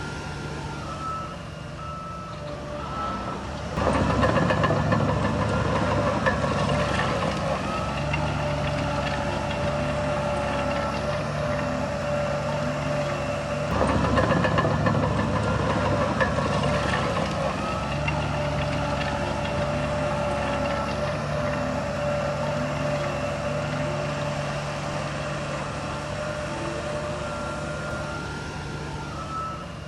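Heavy diesel earthmoving machinery running, its engine surging louder about four seconds in and again about halfway through, as under load. A reversing alarm beeps at the start and again near the end.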